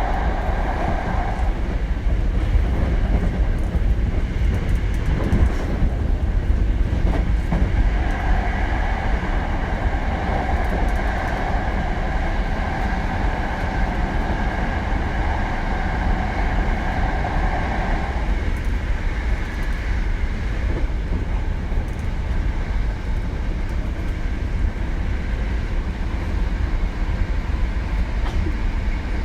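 Hankyu 7000 series electric train running at speed, heard from inside the car: a steady rumble of wheels on rail with some clatter over rail joints. A humming tone comes in about eight seconds in and fades out around eighteen seconds.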